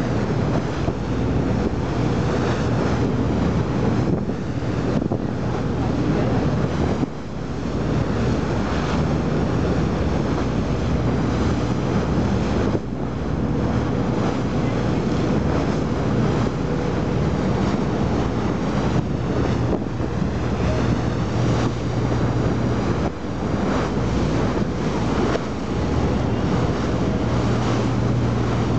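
Wind buffeting the microphone over the steady hum of a boat engine and the wash of the sea.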